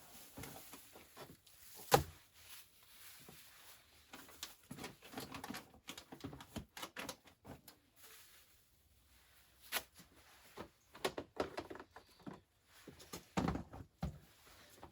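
Irregular knocks, clicks and clatter of objects being handled and set down, with one sharp knock about two seconds in and busier clusters of taps later.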